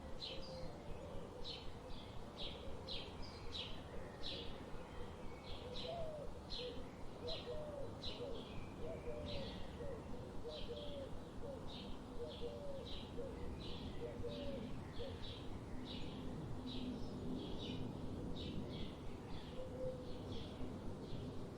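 Forest birdsong: one bird repeats short high chirps about twice a second throughout, while lower, wavering calls run through roughly the first two-thirds and stop, over a steady background hiss.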